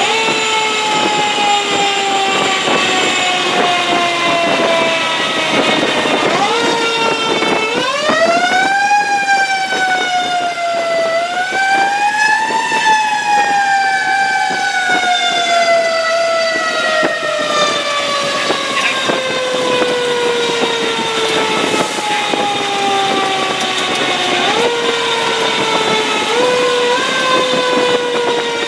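Fire engine's mechanical siren winding down slowly. It is spun back up twice in quick rising sweeps, then left to coast down again with a couple of short bumps in pitch near the end.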